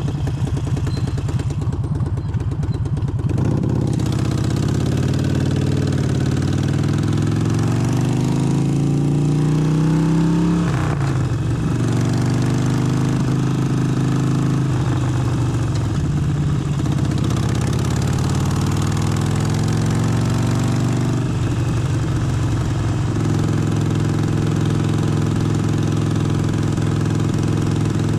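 Harley-Davidson Forty-Eight's 1200 cc air-cooled V-twin running, its pitch rising steadily for several seconds as it accelerates, then dropping sharply about ten seconds in as the throttle is eased or a gear is changed. It then runs at varying speed and settles into a steady lower note for the last few seconds.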